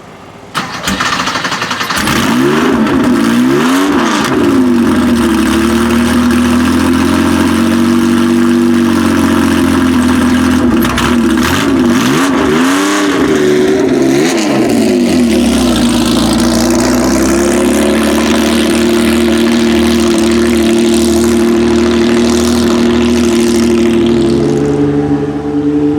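1967 Porsche 910's 2-litre flat-six starting up about half a second in, then running at idle. The throttle is blipped a few times a couple of seconds in and again about halfway through, and it settles to a steady idle between the blips.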